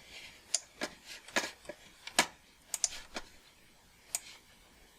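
Computer keyboard and mouse clicks, about nine irregular sharp clicks at uneven spacing.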